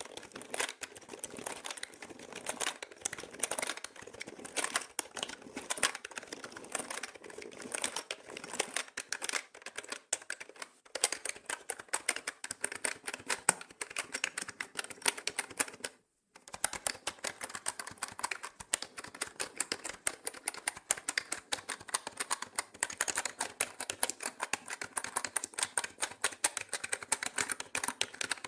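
Fast, continuous typing on a mechanical keyboard: a dense stream of key clicks, broken by one short silence about sixteen seconds in. The typing is processed as 8D audio, panned around the listener.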